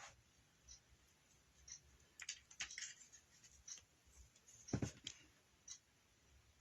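Faint handling sounds from craft materials on a work table: scattered light clicks and rustles, with one duller knock a little under five seconds in.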